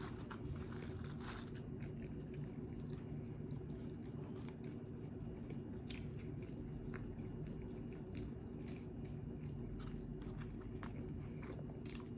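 A person chewing and biting food close to the microphone, with scattered small crunches and mouth clicks over a steady low hum.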